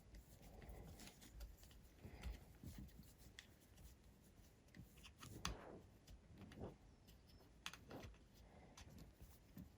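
Near silence with faint, scattered small clicks and rustles of hands working loose fittings on a hexacopter frame arm.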